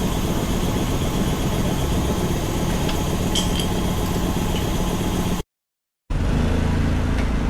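An engine idling steadily, with a few light clinks. The sound cuts out abruptly for a moment near the end, then resumes.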